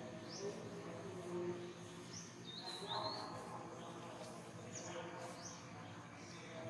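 Birds chirping: short, high chirps every second or two, with a brief warbling trill about three seconds in, over steady outdoor background noise.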